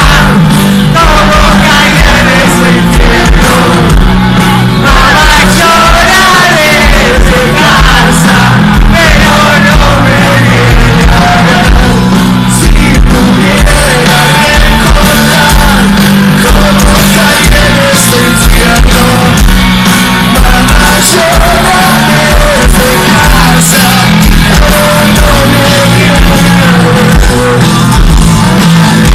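Live rock band playing loud with a singer, a steady driving drum beat underneath.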